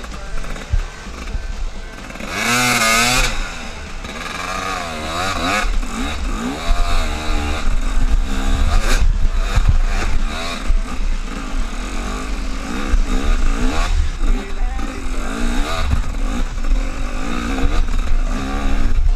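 Motorcycle engine revving up and down again and again, the sharpest burst of revs about two to three seconds in.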